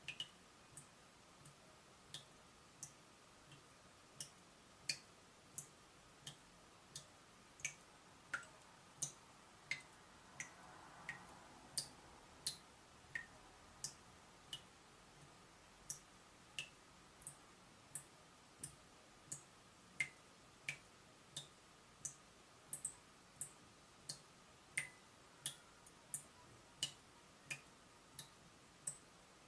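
Water dripping from a leaking tap: short sharp drops at a steady pace of about one and a half a second, each at a slightly different pitch.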